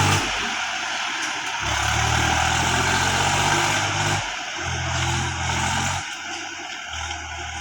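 Swaraj 735 FE tractor's diesel engine running under load, with a low hum that cuts in and out every second or two over a steady rushing noise.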